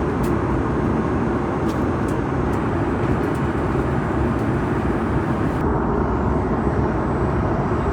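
Airbus A330-300 jet noise: a steady, even rush of engines and airflow, with a few faint clicks early on. The higher hiss drops away about two-thirds of the way through.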